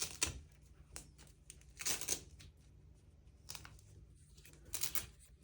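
Fabric basket of a raised planter being handled and its Velcro fasteners worked: several short, scratchy rasps of cloth and hook-and-loop, the longest about two seconds in.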